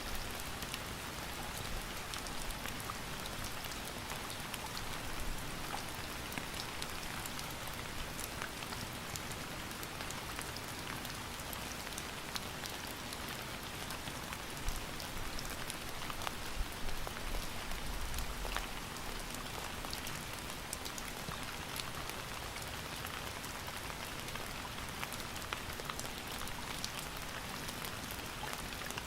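Steady rain falling on a surface, a continuous hiss with many individual drops ticking through it and a few heavier low drips or thuds.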